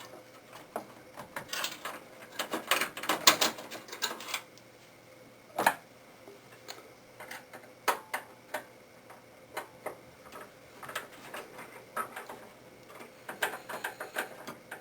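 Irregular clicks and light knocks of the video card being worked loose inside a desktop PC case, with a dense run of clicks about two to four seconds in and one sharper knock near six seconds.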